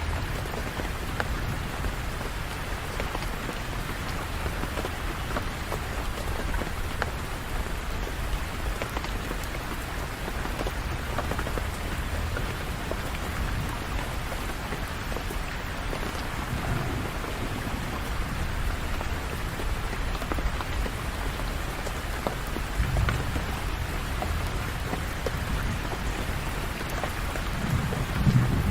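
Steady rain falling, with low rolls of thunder now and then; a louder rumble of thunder builds near the end.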